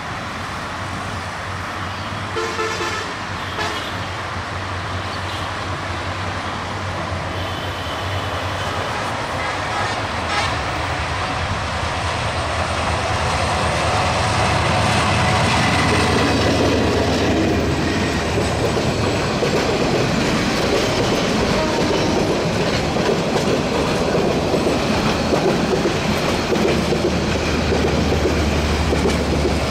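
A diesel locomotive hauling a long passenger train runs up and past with a steady low engine drone, with short horn sounds about three and eight seconds in. The carriages then roll by with loud rattling and clattering wheels on the rails, growing louder until about halfway through and staying loud.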